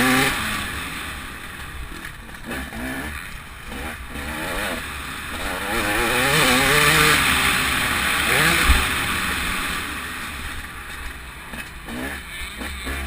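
TM 300 two-stroke motocross bike's single-cylinder engine revving up and dropping off several times as it is ridden hard, the pitch climbing and falling with the throttle. A single low thump comes about two-thirds of the way through.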